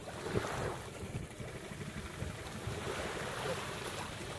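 Wind buffeting the microphone in an uneven low rumble, over faint wash of small waves on the sand.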